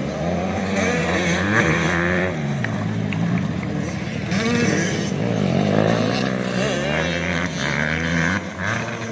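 Several 85cc two-stroke motocross bikes racing, their engines revving up and down over and over.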